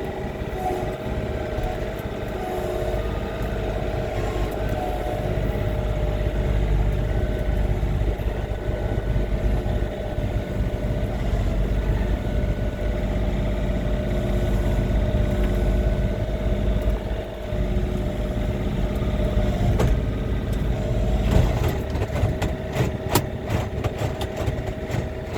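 John Deere 3720 compact tractor's diesel engine running steadily while its snowblower throws snow. About 21 seconds in, a burst of sharp knocks and clanks breaks in: the snowblower is swallowing a buried truck shock absorber, which breaks the blower's drive shaft.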